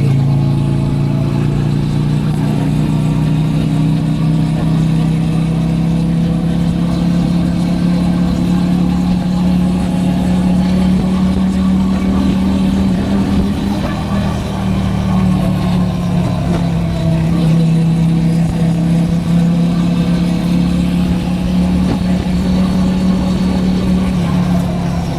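Motorcycle engine running under way at a fairly steady pitch, heard from a helmet-mounted camera with road and wind noise beneath it.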